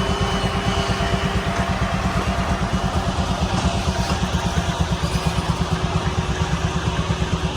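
Old show engine running steadily under load, with an even, rapid beat of about eight or nine pulses a second.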